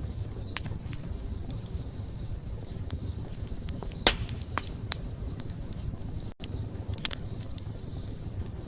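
Wood campfire burning: a steady low rush of flame with scattered sharp crackles and pops, the loudest about four seconds in.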